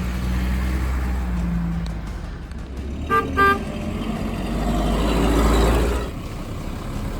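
A car horn sounds two short toots about three seconds in, over the steady low rumble of a vehicle engine running.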